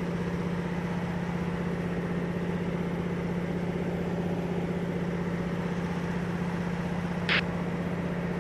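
De Havilland DHC-2 Beaver's Pratt & Whitney R-985 nine-cylinder radial engine droning steadily in cruise flight. A brief hiss cuts in once about seven seconds in.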